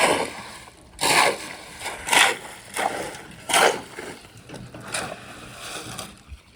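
Shovel turning a wet mortar mix, a run of short, wet scraping and splashing strokes at an uneven rate of about one a second, with water just worked into the mix.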